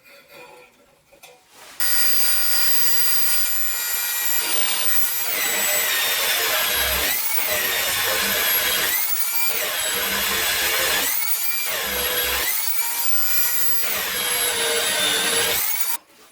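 A 9-inch (230 mm) angle grinder running with a high whine, then cutting metal. From about three seconds in, the whine repeatedly drops in pitch and recovers as the disc is loaded and eased off. It starts and stops abruptly.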